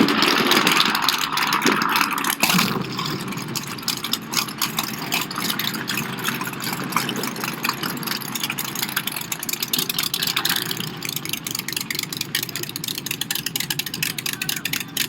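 Big-block Chevy V8 in a drag-race Smart car running, a dense stream of rapid exhaust pulses, loudest in the first couple of seconds.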